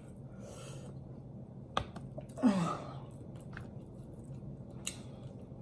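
Quiet wet mouth sounds of eating: a few sharp smacks and clicks from chewing and licking sauce off the fingers, with a short hum that falls in pitch about two and a half seconds in.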